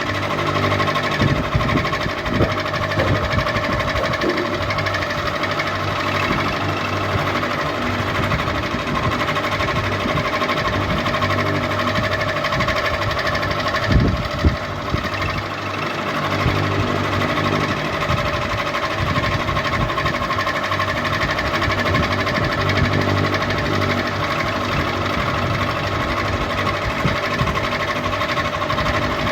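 Ceiling fan running steadily: a constant motor hum with a fine mechanical clatter, and a couple of brief knocks about halfway through.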